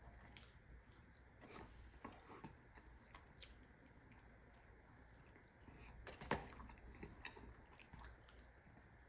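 A person chewing and biting food, with soft wet mouth noises and small clicks, and one sharper click about six seconds in.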